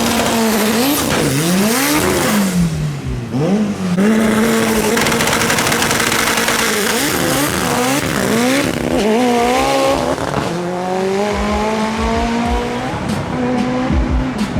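Drag race car engine revving up and down, then holding steady revs for a few seconds, then accelerating hard through the gears. The pitch climbs and drops back at each shift, then rises slowly near the end, with some tire squeal in the first half.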